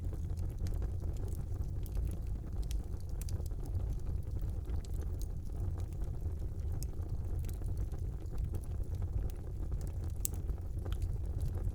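Wood fire burning in a brick fireplace: a steady low roar of the flames with frequent small crackles and pops, one sharper pop near the end.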